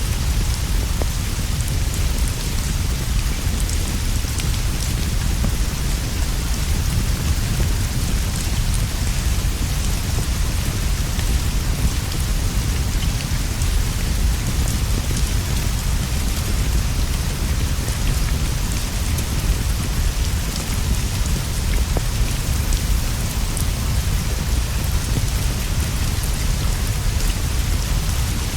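Steady rain falling, with a deep continuous rumble underneath and faint scattered ticks.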